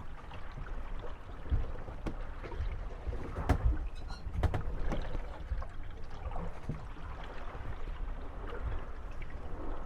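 Moored gondolas rocking on waves, their hulls knocking and bumping against each other in irregular thumps, with a brief creak, over the wash of lapping water.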